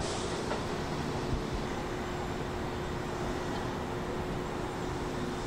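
Kintetsu electric train at a station, heard as a steady even noise with a constant mid-pitched hum.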